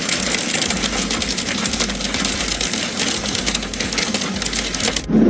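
Hail pelting a hard surface: a dense, rapid clatter of countless small impacts that cuts off suddenly near the end.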